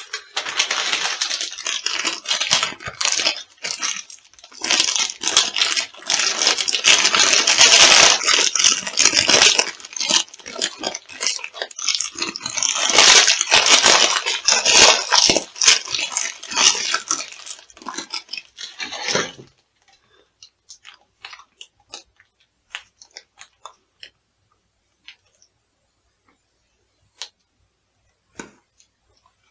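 Crunchy food being crushed underfoot: a dense, continuous crackling crunch that stops suddenly about two-thirds of the way in, followed by scattered small clicks and crackles.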